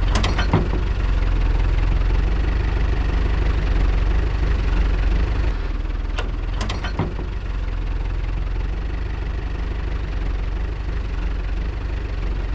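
Diesel engine of a front loader running steadily under heavy load while lifting a large log. A few short sharp clicks or knocks come right at the start and again about six and a half seconds in.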